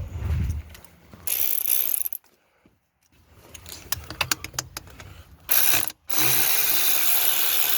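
Ratchet wrench clicking in short runs on an engine bolt. About six seconds in, a loud steady hiss starts and carries on.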